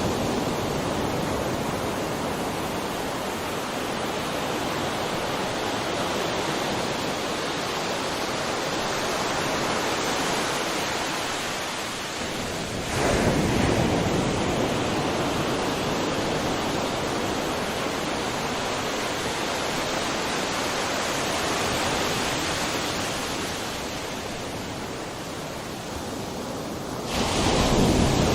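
Sea surf washing steadily onto a shore, with a louder surge as a wave breaks about halfway through and another near the end.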